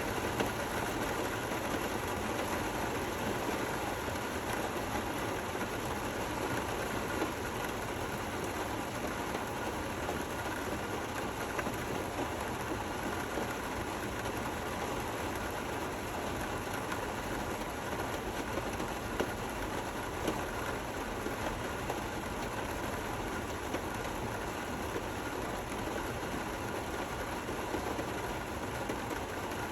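Steady rain falling, an even hiss with a few brief louder ticks.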